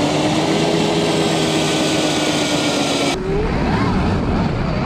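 Electric snowbike's motor whining under throttle over a steady hiss, its pitch climbing a little and then holding. About three seconds in the sound changes abruptly, and the whine then rises and falls with the throttle.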